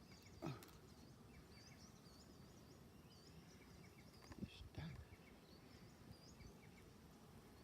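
Faint outdoor quiet with a small bird chirping over and over in short, high-pitched calls, plus a couple of brief faint sounds.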